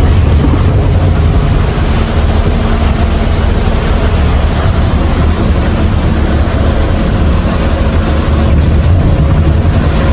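Loud, steady low rumble of a moving vehicle, with a faint steady hum over it and no breaks.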